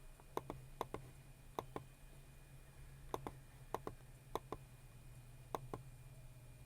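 Computer mouse clicking: sharp clicks, mostly in quick pairs, about seven of them spread over several seconds, with a low steady hum underneath.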